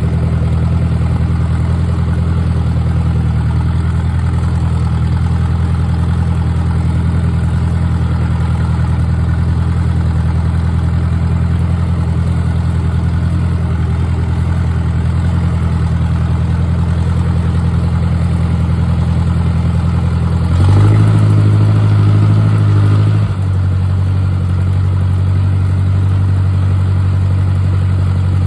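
1953 Ford Jubilee tractor's four-cylinder engine running steadily, speeding up for a couple of seconds about twenty seconds in and then settling back to its earlier pace.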